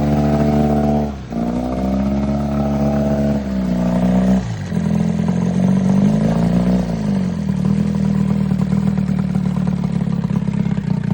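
Evinrude outboard motor running, its revs dropping about a second in and again at about four and a half seconds, rising and falling once more around six to seven seconds, then settling at a steady lower speed.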